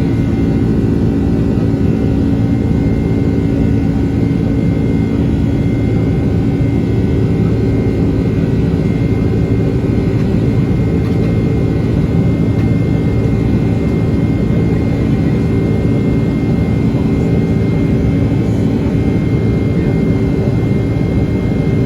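Steady jet engine and airflow noise inside the cabin of a Boeing 767-300ER, an unchanging deep rush with a few held tones in it.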